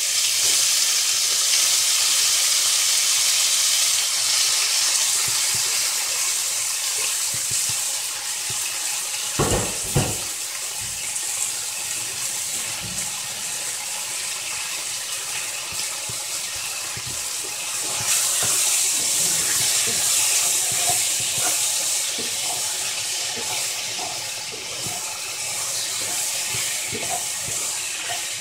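Chicken breast pieces sizzling loudly in hot olive oil with browned onion, garlic and chili, just after going into the pan. Two knocks come about ten seconds in.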